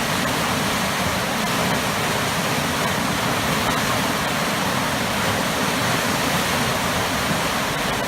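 Waterfall pouring powerfully into churning water below, a loud, steady rushing roar.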